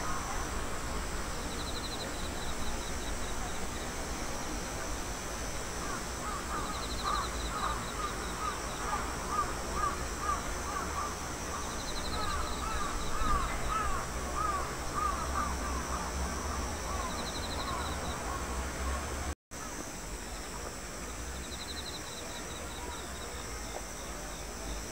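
Mallards calling: a long run of quick, repeated quacks, with an insect's short high trill coming back every few seconds.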